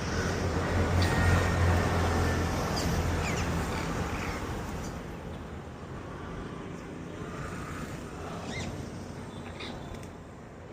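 Birds giving short, falling chirps now and then over a low rumble that swells in the first couple of seconds and fades away.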